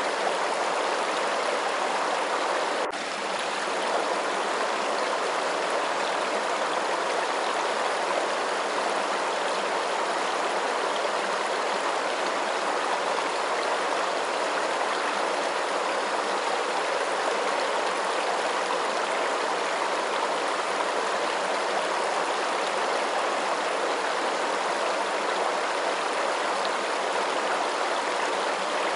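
Steady, continuous rush of flowing water, like a stream, used as a relaxing white-noise sound. About three seconds in there is a faint click and a brief dip in level.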